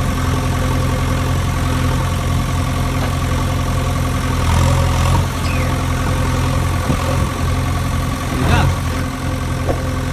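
Tractor engine idling steadily, a low, even running note.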